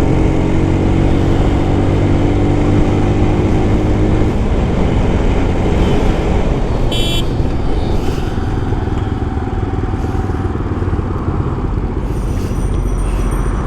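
Motorcycle engine running under way through city traffic, with road and traffic noise around it. A short horn toot sounds about seven seconds in.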